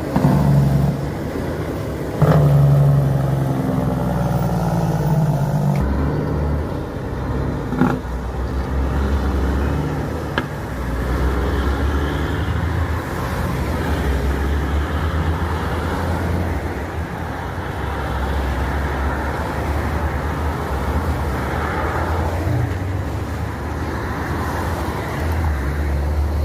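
Fully loaded truck's engine and road noise while driving, a low steady rumble whose engine note shifts several times, with a couple of brief knocks.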